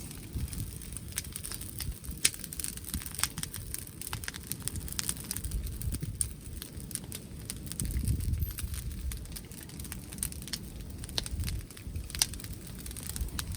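Wood bonfire crackling with many sharp, irregular pops, over a gusty low rumble of wind on the microphone that swells about two-thirds of the way through.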